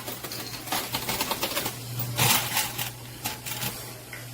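Quarters clinking and clattering in a coin pusher machine: a string of short, sharp metallic clicks over the machine's steady low hum.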